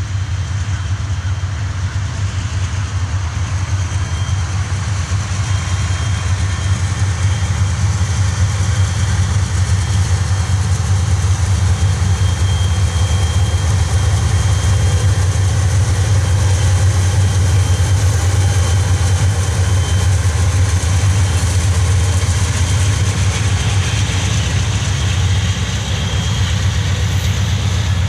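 Diesel freight locomotive running with a steady low engine rumble that slowly grows louder through the first half.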